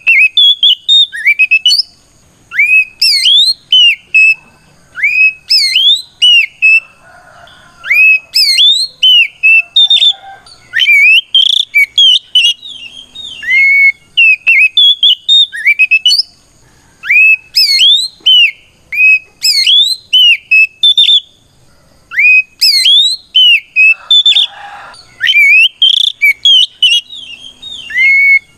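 Oriental magpie-robin singing a loud, clear, whistled challenge song calling out a rival: quick phrases of rising and falling notes in bursts a couple of seconds long, separated by short pauses.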